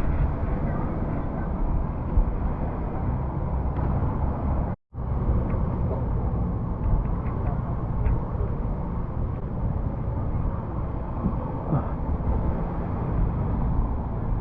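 Steady engine drone and rushing noise of a moving vehicle, cutting out abruptly for a moment about five seconds in.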